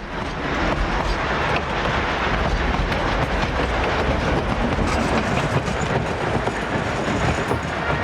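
Narrow-gauge train rolling along the track: a steady rumble with wheels clattering over the rail.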